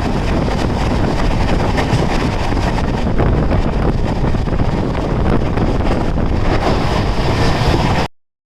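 A train running through at speed: a steady heavy rumble and rush with many faint clicks and wind buffeting the microphone. It cuts off abruptly about eight seconds in.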